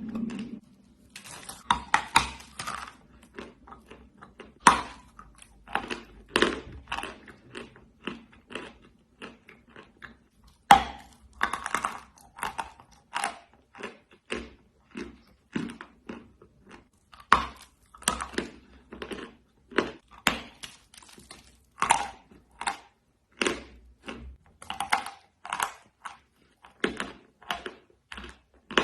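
A person biting and chewing pieces of white clay, making a run of irregular, crisp crunches. A louder, sharper bite comes every few seconds.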